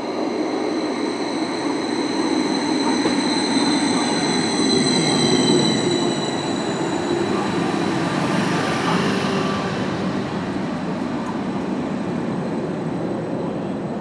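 Greater Anglia Class 755 Stadler FLIRT bi-mode train drawing into the platform and slowing, its running noise rumbling steadily under a thin high whine that slowly falls in pitch as it loses speed.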